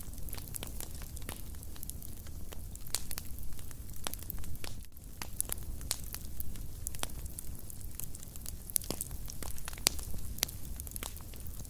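Wood fire crackling in a fireplace: frequent sharp, irregular pops and snaps over a low, steady rumble of burning.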